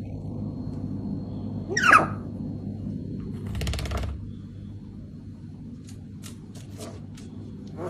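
A parrot giving one short, loud squawk that sweeps sharply down in pitch, followed by a brief scratchy rustle and then a series of sharp clicks, over a steady low room hum.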